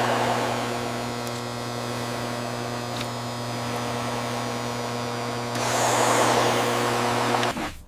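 A small electric motor, such as a power tool's, running at a steady pitch with a hum and hiss. It turns louder and harsher for its last two seconds, then stops abruptly.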